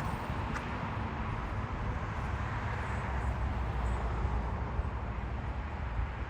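Steady low rumble of road traffic, with no siren heard.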